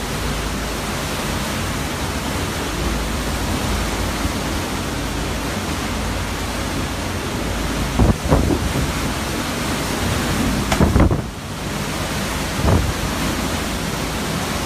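Hurricane wind and rain blowing in a steady loud rush, with a few short louder gusts thumping into the microphone about eight and eleven seconds in and again shortly after.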